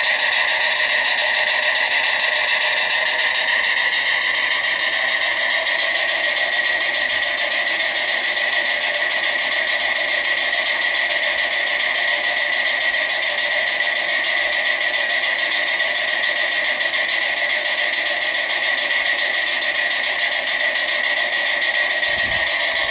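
Steady rushing hiss with no rhythm, running evenly throughout.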